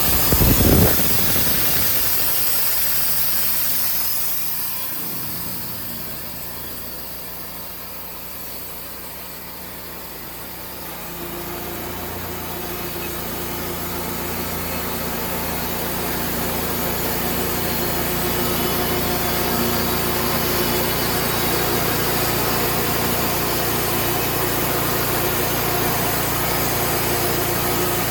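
An engine running steadily, with a brief loud thump about half a second in. The engine grows quieter for several seconds, then builds back up to a steady hum.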